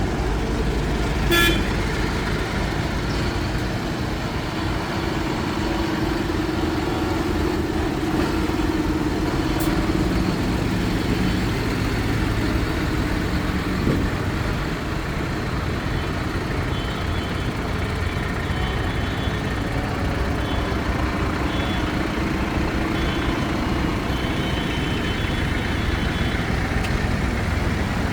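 A procession of tractors driving past, their engines rumbling steadily as one after another goes by. A short horn toot sounds about a second and a half in.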